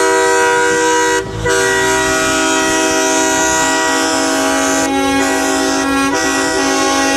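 Semi-truck air horns sounding in a long, steady chord. There is a brief break about a second in, then the horns carry on at a lower pitch.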